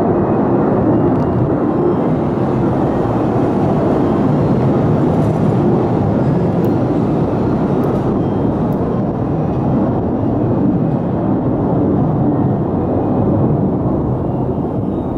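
Jet noise from F-35A fighters taking off: a loud, steady roar that holds at an even level throughout.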